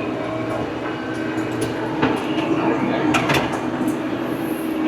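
Old tractor's engine running steadily, with rattles and knocks from the machine scattered through it.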